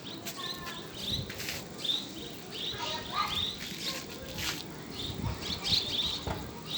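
A flock of small birds chirping in short repeated calls, with bursts of wings flapping as they scatter.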